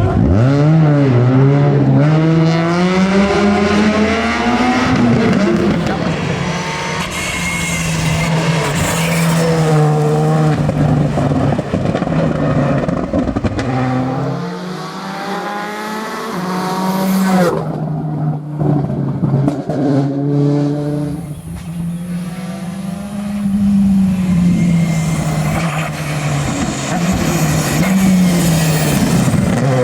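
Rally cars driven flat out: engines revving hard, the pitch climbing and dropping again and again through gear changes and lifts. Several short passes follow one another with abrupt changes between them.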